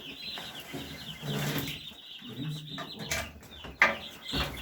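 Broiler chicks peeping steadily in chorus, over scraping and knocking from a homemade scraper raking droppings off polycarbonate trays beneath their cage. A sharp knock near the end is the loudest sound.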